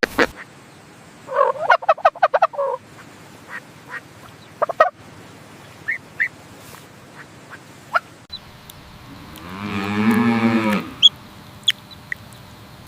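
Farm animal calls: a quick run of short calls about a second in, a few scattered single calls, and one longer drawn-out call around ten seconds in.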